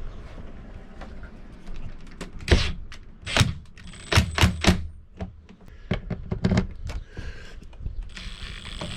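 A run of sharp knocks and clunks from tools and mounting hardware while the rooftop air conditioner is being fastened down, loudest and most frequent in the middle.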